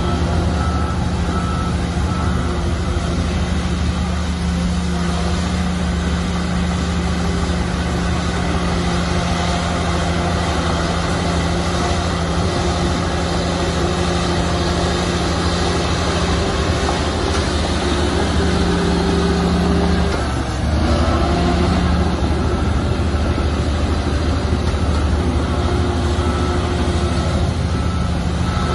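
Bulldozer's heavy diesel engine running steadily under load. Its note rises slightly near the end of the first two-thirds, drops for a moment about twenty seconds in, then comes back up.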